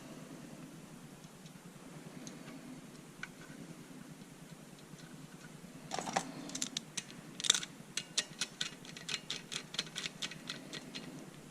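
Faint handling of wires and small parts, then from about six seconds in a run of sharp small clicks, a few a second and irregular, as the vacuum pump's switch wiring is worked into place by hand.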